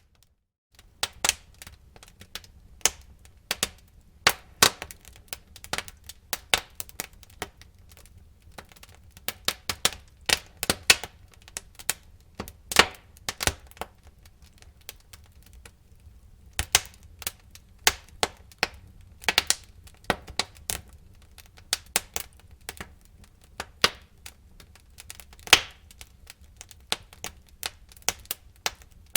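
Wood fire in a fireplace crackling, with irregular sharp pops and snaps over a faint low rumble of the flames. The sound cuts out for a moment just after the start.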